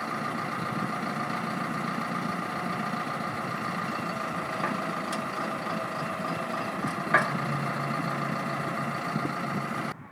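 Backhoe loader engine running steadily, with a single sharp clank about seven seconds in. The sound cuts off abruptly just before the end.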